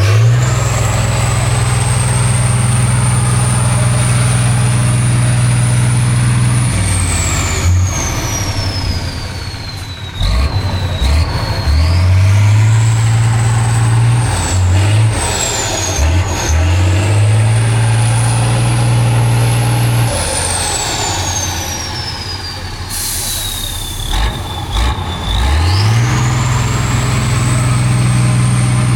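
Heavy off-road competition truck's engine held at high revs under load, twice dropping off and climbing back up, with a high whistle rising and falling along with the revs. There is a short burst of hissing air a little before the end.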